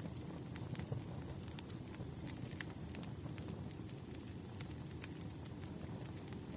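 Firewood burning and crackling: a steady low rush with scattered sharp pops and clicks.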